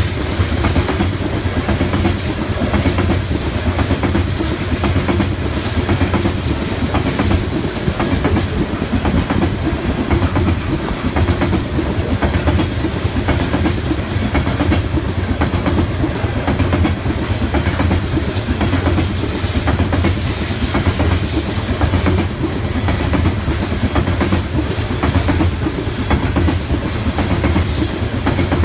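Freight train of loaded coal cars rolling steadily past: the steel wheels on the rails make a continuous heavy rumble, broken by many sharp clicks and clatters as the wheels pass over the track.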